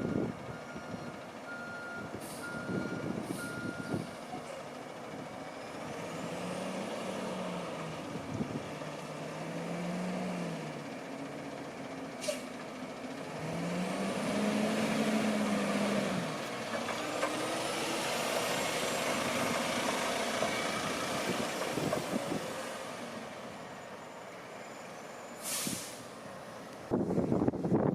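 Autocar front-loader garbage truck: its reversing alarm beeps for the first few seconds, then the diesel engine revs up and falls back three times under load and keeps running, with short air-brake hisses about halfway through and near the end.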